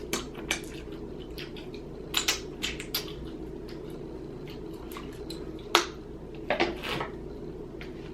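Close-up eating sounds of boiled crawfish: scattered cracks and clicks of shells being broken and wet lip smacks and squishes, with the loudest ones about two seconds in and again near six and seven seconds, over a faint steady hum.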